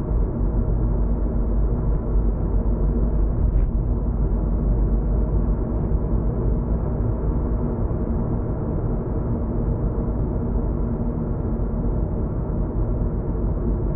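Steady road and engine rumble of a moving car, heard inside the cabin.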